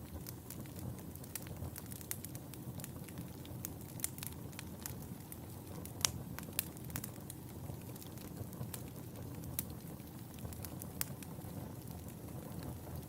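Wood fire burning in a fireplace: a steady low rumble of flames with frequent crackles and sharp pops, the loudest pop about six seconds in.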